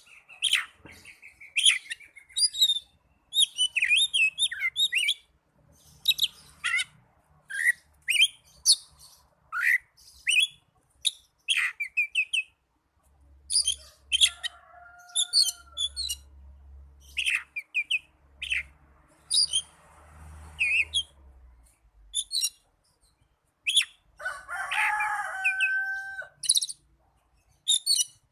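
Oriental magpie-robin (kacer) giving its aggressive fighting song: quick phrases of sharp whistles, chirps and rapid chattering with short pauses between them, with a harsher phrase near the end. This is the kind of challenging song used as a lure to provoke other magpie-robins into spreading their tails and singing back.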